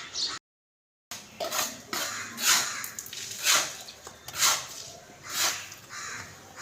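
Birds splashing and fluttering their wings in bath water, in bursts about once a second, after a brief gap of silence near the start.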